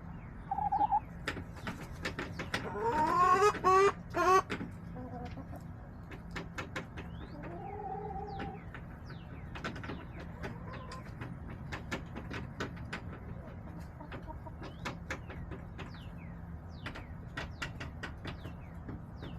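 Backyard hens clucking and calling, with a run of louder calls rising in pitch a few seconds in and a shorter call later. Many light clicks and taps come in between, over a steady low hum.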